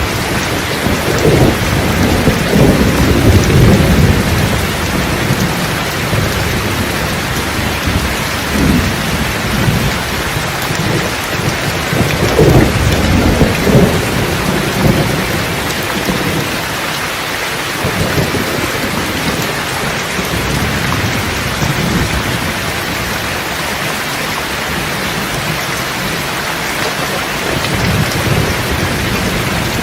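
Steady heavy rain falling, with rolls of thunder rumbling low in the first few seconds and again about twelve seconds in.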